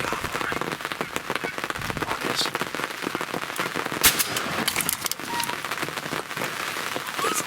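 Heavy rain pattering on a hunting blind, a dense crackle of drops, with one sharp knock about four seconds in.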